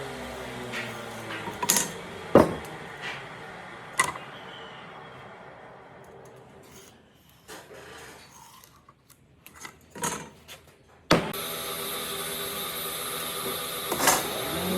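Workshop power tool winding down, its pitch falling, with scattered knocks of wood and tools. About eleven seconds in a machine starts abruptly and runs with a steady hum.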